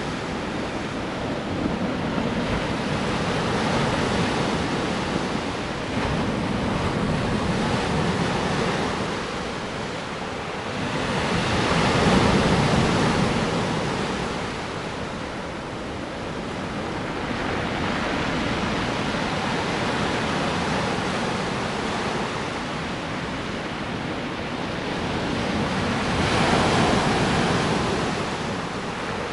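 Sea surf: waves washing onto the shore in a steady rush of noise, swelling louder twice, about twelve seconds in and again near the end.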